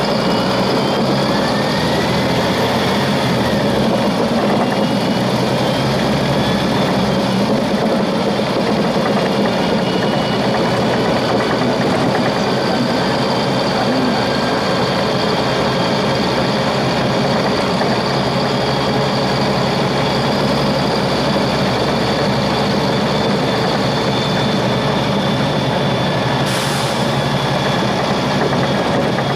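Volvo 7700A articulated city bus's diesel engine running steadily, with a faint rising whine in the first few seconds. There is a short hiss near the end.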